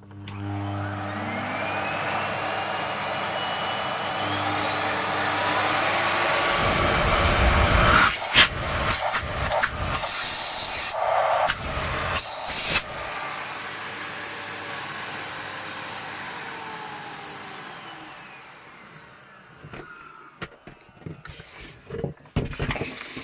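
Miele Classic C1 Junior PowerLine cylinder vacuum cleaner switched on: its motor whine rises as it spins up, then runs steadily, with some knocks and rumbling midway. It winds down and stops near the end, followed by a few clicks.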